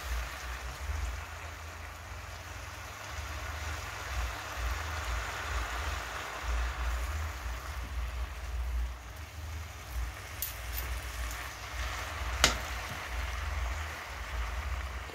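Spinach leaves sizzling in hot olive oil in a frying pan as they wilt, turned over with two metal forks. One sharp click of a fork against the pan comes about twelve seconds in.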